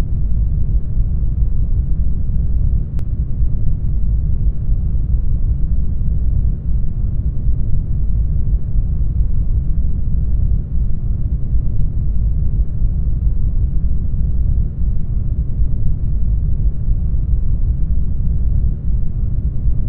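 Brown noise: a steady, deep rushing noise with most of its weight in the bass, unchanging throughout.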